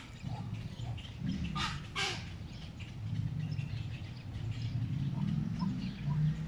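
Two short, harsh bird calls about one and a half and two seconds in, with a few faint chirps later, over a low steady rumble.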